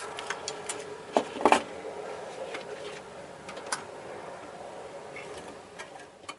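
Irregular mechanical clicks and knocks over a steady hum that slowly fades, with the sharpest knocks about a second and a half in.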